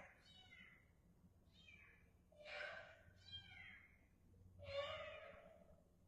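Trapped kitten meowing repeatedly, about five calls, the loudest near the end.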